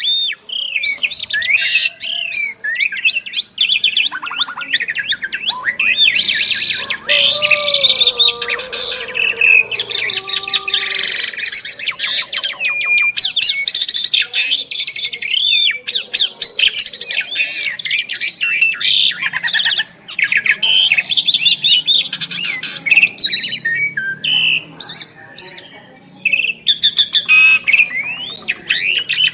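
Two Asian pied starlings (jalak suren) singing together in a dense, continuous stream of rapid whistles, rising and falling glides, clicks and harsh chattering notes. Some lower, held notes come in briefly from about six to eleven seconds in.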